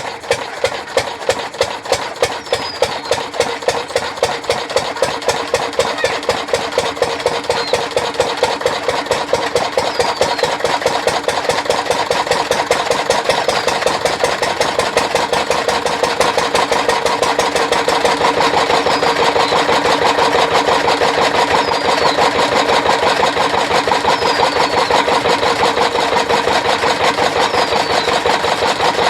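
Engine of an engine-driven chaff cutter running with a regular beat. It speeds up and grows louder over the first twenty seconds or so, then runs steadily.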